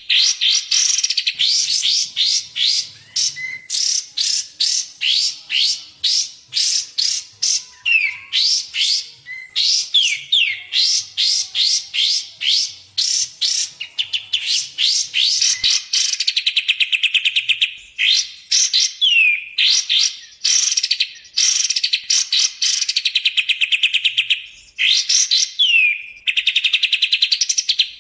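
Recorded songbird song played as a masteran tutor track: fast runs of sharp, high chirps and rattling trills, with occasional downward-sliding whistled notes and short pauses between phrases.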